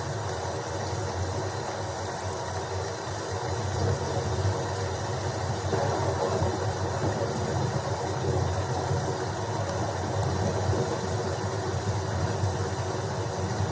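Rain and thunderstorm ambience: a steady hiss of rain over a continuous low rumble. It gets a little louder about four seconds in.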